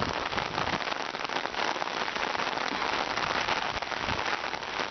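Heavy rain coming down hard and steadily: a dense, even patter of countless drops on wet ground and standing water.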